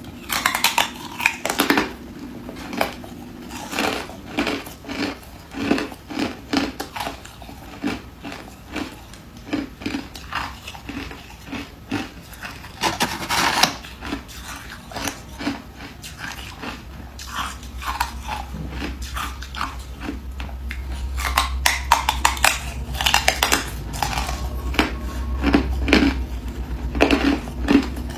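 Ice being bitten and chewed close up: irregular hard crunches and cracks, some in quick clusters.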